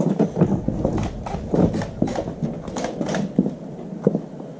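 Hand tools being rummaged and handled, making irregular clinks, knocks and clatter several times a second.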